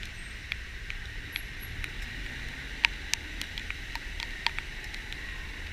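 Heavy rain hissing steadily, with many scattered sharp ticks of drops striking, over the low, steady rumble of a vehicle on the move.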